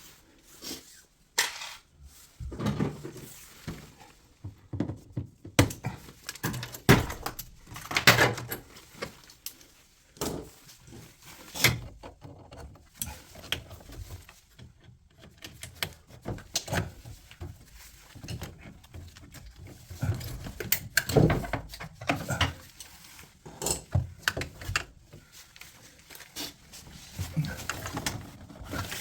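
Irregular knocks, clicks and clatter of hard parts and tools being handled while a drum washing machine is taken apart.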